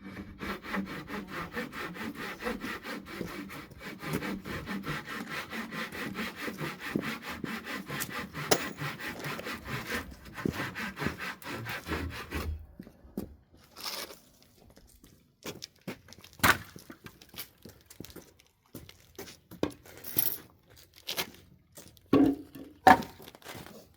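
Hand saw cutting through pallet wood in quick, even back-and-forth strokes; the sawing stops about halfway through, followed by scattered knocks and clatter of wood being handled.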